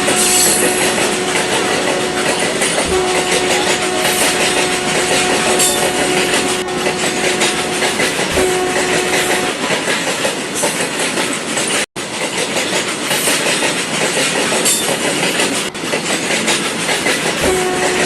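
Model train locomotive running on its track: a steady running noise under a held steady tone that breaks off and comes back several times. The sound cuts out for an instant about twelve seconds in.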